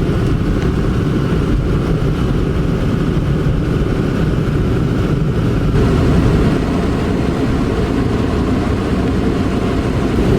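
Steady rumble of a vehicle driving, heard from inside the cabin: engine and tyre noise on a snowy road.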